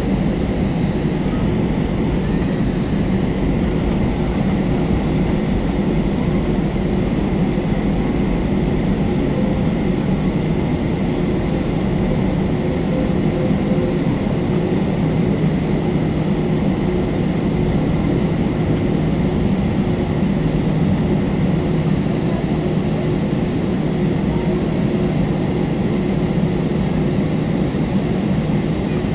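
Airbus A320 engine and airflow noise heard inside the passenger cabin: a steady, loud drone with a thin high whine held over it, unchanging throughout.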